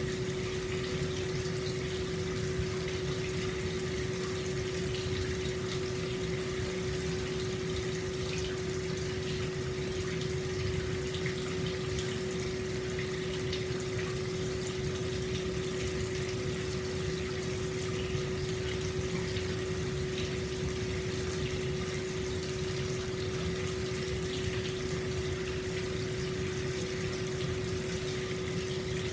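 Hot spring water pouring steadily into an open-air bath, with a constant hum running under the splashing.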